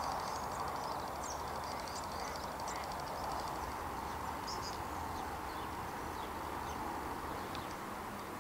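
Birds chirping and trilling over a steady rushing background noise.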